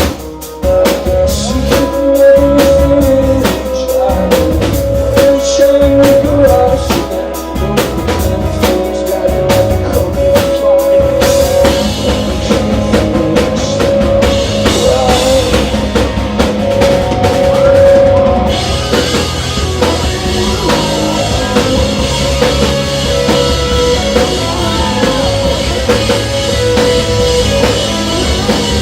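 Rock band playing live: full drum kit with kick and snare under sustained electric guitars and bass. The drums hit hard and steadily at first, then about two-thirds of the way through crashing cymbals come in and stay.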